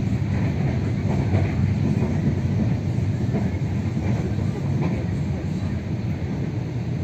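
Passenger train running along the line, heard from inside the carriage: a steady low rumble of wheels on the rails.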